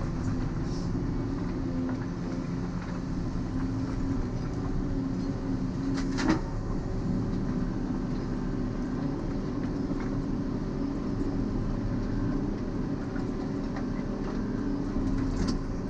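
Volvo EC140EL tracked excavator's diesel engine running steadily under working load, with one sharp knock about six seconds in.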